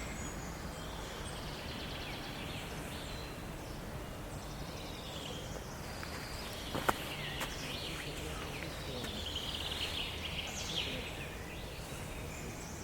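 Several birds singing and chirping in short phrases over a steady low background hum. A single sharp click about seven seconds in.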